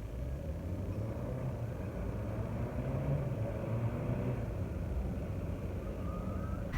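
Steady low rumble of a vehicle, with a faint rising whine near the end.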